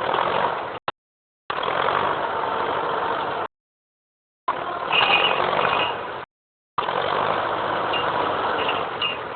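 An engine on logging equipment running steadily. The sound cuts out completely and abruptly three times, for about half a second to a second each time.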